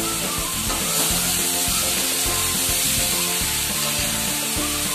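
Eggplant pieces sizzling in hot oil in a kadai while being stirred with a spatula, over background music.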